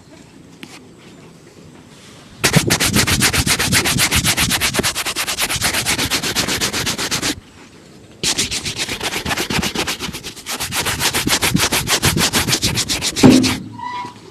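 A leather shoe being buffed in two brisk bouts of rapid back-and-forth strokes, several a second, with a short pause between them. The last stroke is the loudest.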